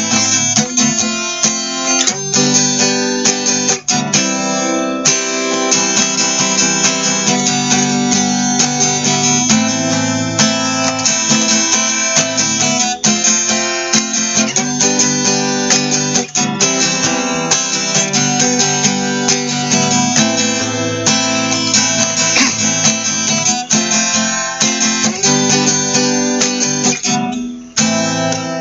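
Acoustic guitar strumming steady chords in an instrumental break between sung verses of a song.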